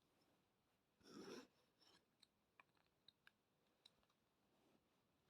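Near silence with a soft rustle about a second in and a few faint clicks of small plastic parts being handled.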